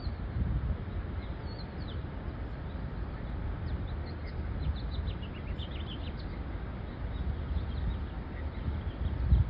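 Birds chirping: many faint, short, high chirps that come thickest in the middle, over a strong, uneven low rumble.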